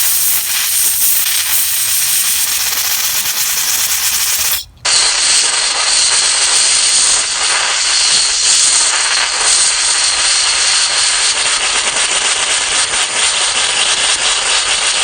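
Aerosol carburetor cleaner spraying in two long hisses, with a brief break about four and a half seconds in, forced through a lawn mower carburetor's main jet to flush it and check whether it is clogged.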